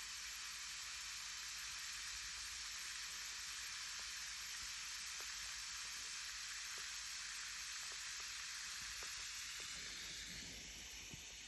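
Homemade bath bomb fizzing steadily in water, a constant hiss with faint scattered pops as its baking soda and citric acid react and release bubbles. The fizz eases slightly near the end.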